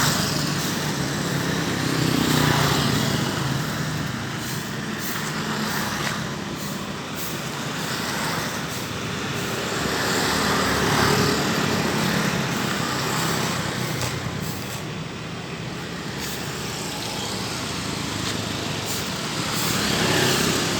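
Road traffic: vehicle engines and tyres passing, a steady hum that swells and fades every few seconds.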